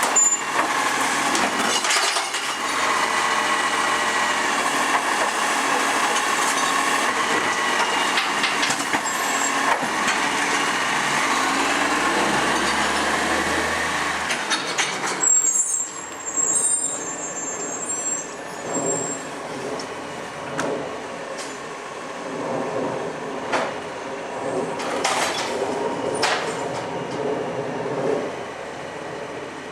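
Iveco ACCO side-loader garbage truck's engine running at raised revs for about the first half, then dropping back to a quieter idle with a high hiss or squeal about halfway through. Scattered clunks and knocks follow, loudest a little before the end.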